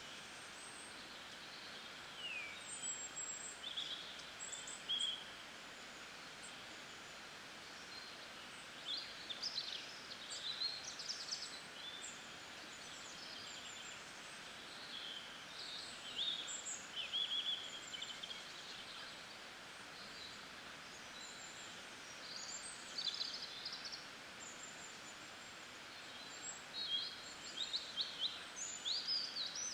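Small birds chirping and trilling in scattered short bursts over a steady background hiss of outdoor ambience.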